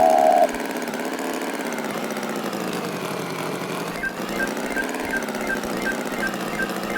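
Tractor engine sound effect running steadily, with a short loud tone at the very start. From about four seconds in, a regular high tick joins it about three times a second.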